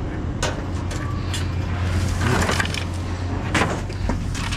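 Vehicle running with a steady low hum, with a few sharp knocks and rattles.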